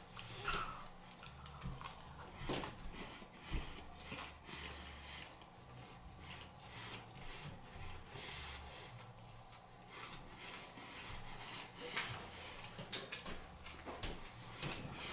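Close-miked eating: chewing and wet mouth sounds with many irregular clicks and smacks.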